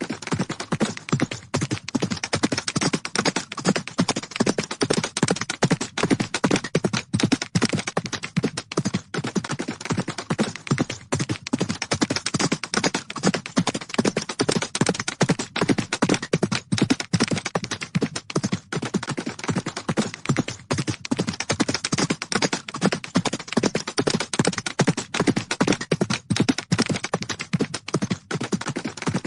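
Hooves of galloping horses beating rapidly on the ground, a dense, unbroken run of hoofbeats.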